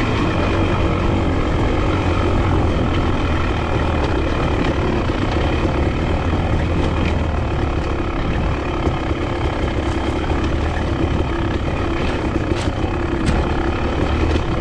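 Enduro dirt bike engine running steadily under way, a continuous low drone with a rough rumble over it. Two sharp clicks near the end.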